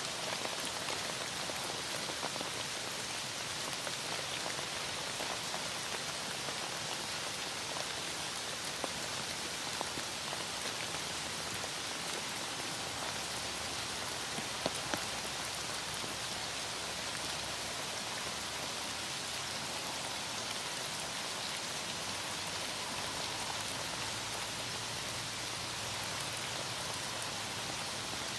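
Heavy rain falling steadily, with a couple of light taps about halfway through.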